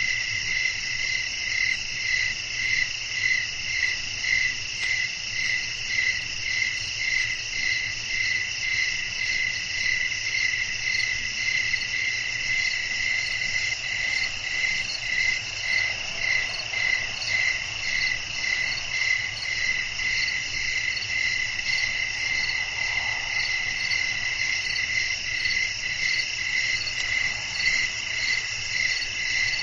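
Night chorus of crickets chirping steadily, a high shrill sound that pulses evenly at about one and a half beats a second over a continuous trill.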